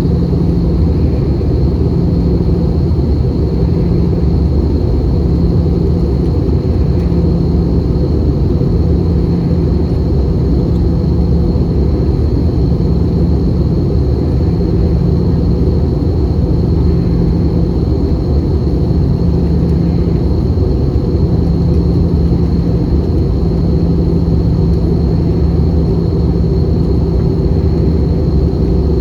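Airbus A320 cabin noise in flight: a loud, steady rumble of the engines and airflow heard from inside the cabin, with a thin, steady high whine over it.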